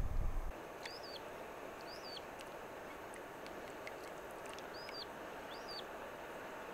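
A bird calling four times, each a short high note that rises and falls, over a steady soft rushing background. A rumble of wind on the microphone cuts off about half a second in.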